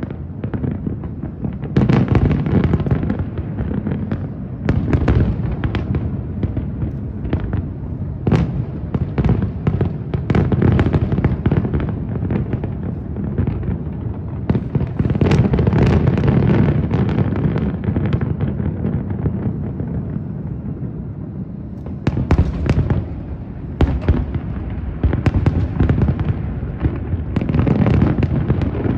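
Aerial fireworks going off in rapid succession: dense sharp bangs, clustered around two, five, eight, sixteen and twenty-two to twenty-eight seconds in, over a continuous low rumble and crackle.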